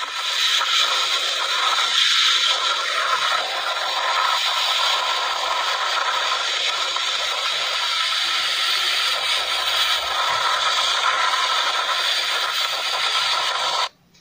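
Steady hiss of rain and tyres spraying water on a wet road. It cuts off abruptly near the end.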